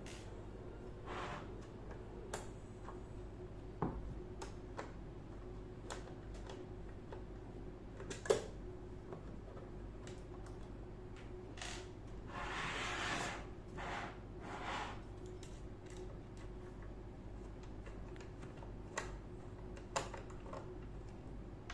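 Screws being undone from the metal back plate of a fanless industrial PC: scattered small clicks and ticks of the screwdriver and screws, with a longer scraping rustle a little past halfway. A faint steady hum runs underneath.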